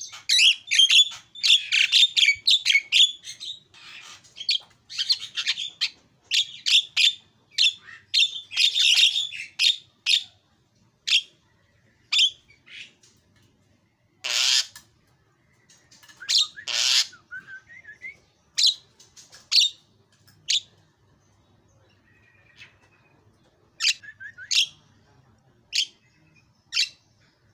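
Javan myna (jalak kebo) singing: a fast, dense run of chattering whistles and chirps for the first third, then thinning to single sharp calls spaced a second or two apart, with two harsh squawks about halfway through.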